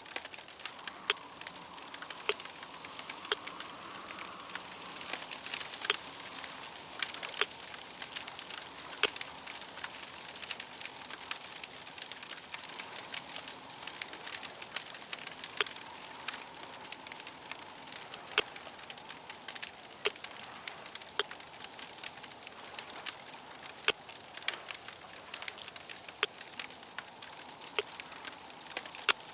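Fire crackling steadily, with many irregular sharp pops and snaps over a soft hiss.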